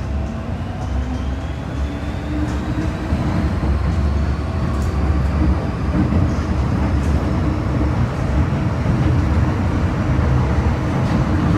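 MTR Kwun Tong line M-Train electric multiple unit running between stations, heard from inside the car: a steady low rumble of wheels on the track, with a faint motor whine rising in pitch over the first few seconds as the train gathers speed.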